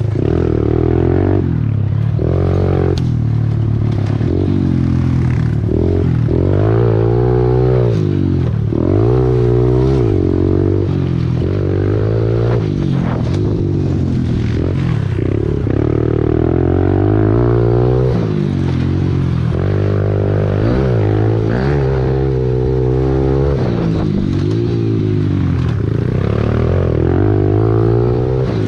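Small 110cc pit bike engine being ridden hard, its pitch rising and falling over and over as the throttle is opened and closed.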